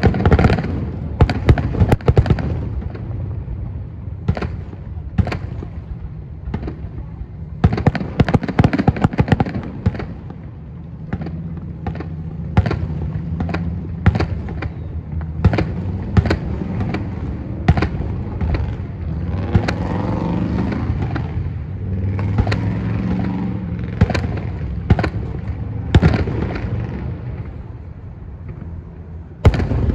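Aerial firework shells bursting at a distance in a rapid, uneven series of sharp bangs, with a thicker cluster of reports about a third of the way in and a loud one near the end. A steady low rumble runs underneath.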